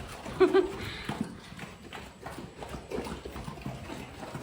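Large shepherd dogs eating hungrily from their bowls: irregular clicks and knocks of chewing and bowl clatter.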